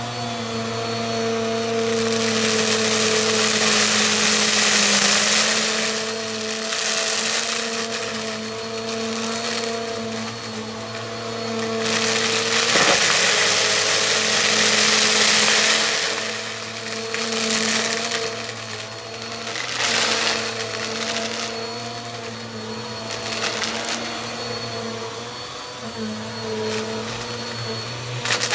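Bissell vacuum cleaner running: a steady motor hum under a rushing suction noise that swells and fades several times, with scattered clicks and crackles.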